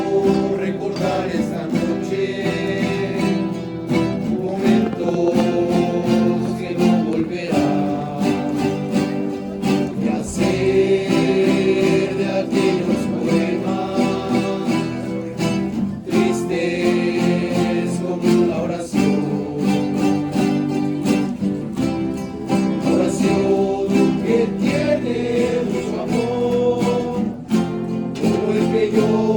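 A rondalla: several voices singing together in unison over strummed and plucked guitars.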